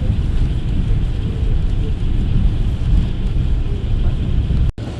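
Steady low rumble of a moving intercity coach heard from inside the cabin: engine and tyre noise with a fainter hiss above it. It drops out abruptly for an instant near the end.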